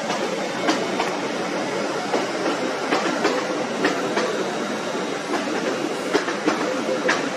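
Great Western Railway Class 800 train running slowly through the station, with a steady rumble and irregular clicks from its wheels over the rail joints.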